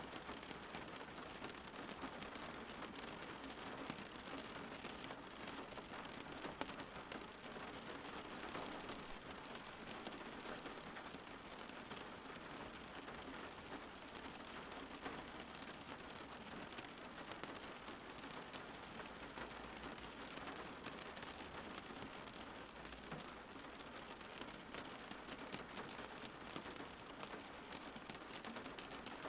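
Steady rain falling on a surface, an even patter of many drops that holds without change.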